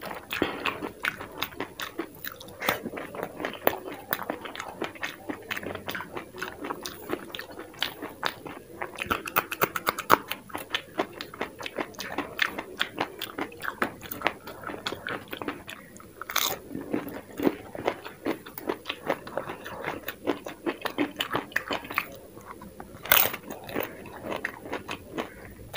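Close-miked chewing and crunching of dahi puri: crisp puri shells cracking between the teeth amid wet, soft chewing of yogurt filling, in a dense run of small crunches with two sharper cracks, one past the middle and one near the end.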